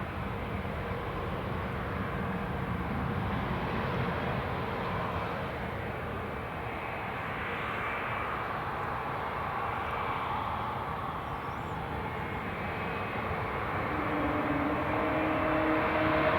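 Airbus A220-300 jet airliner's Pratt & Whitney PW1500G geared turbofan engines running, a steady roar that grows louder near the end as a rising tone comes in.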